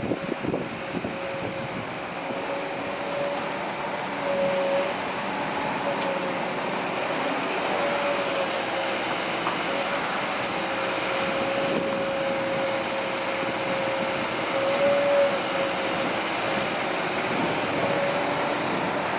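Kobelco SK200-8 excavator working: diesel engine running under load with a steady hydraulic whine that wavers a little in pitch and swells now and then.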